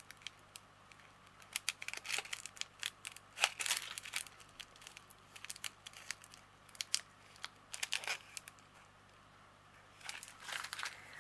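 Small plastic bags of diamond painting drills crinkling and rustling as they are handled, in a string of irregular crackles, busiest a few seconds in.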